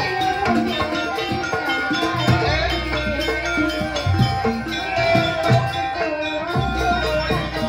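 Live jaranan music from a Javanese folk ensemble: hand drums beating a steady rhythm under a wavering melody line.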